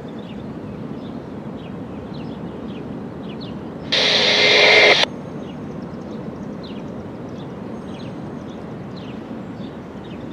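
A scanner radio keys up with about a second of loud static, starting and cutting off abruptly about four seconds in. Behind it is steady outdoor background noise with faint, repeated short bird chirps.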